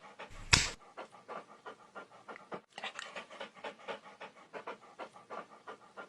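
A dog panting in quick, even breaths, with a louder breath about half a second in.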